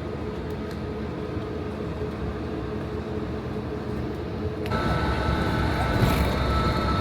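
Steady low rumble of a running vehicle engine. About two-thirds of the way through it changes abruptly to a louder, fuller engine drone with a steady high whine.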